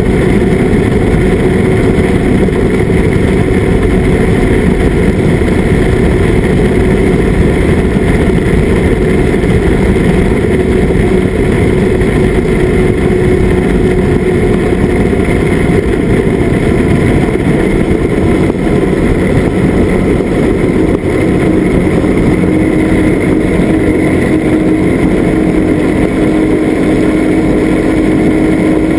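Outboard motor running steadily at speed while the boat is underway, its note easing slightly lower in the last few seconds.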